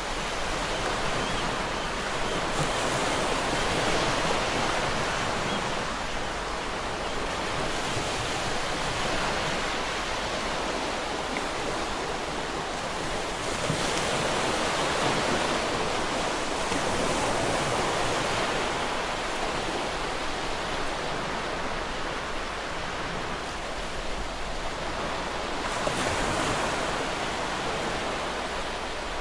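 Ocean waves breaking against rocks: a continuous rush of surf that swells and eases every few seconds.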